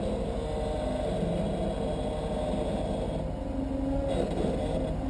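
Off-road vehicle's engine running at low revs, the note shifting a little, as the rig crawls forward slowly over rock.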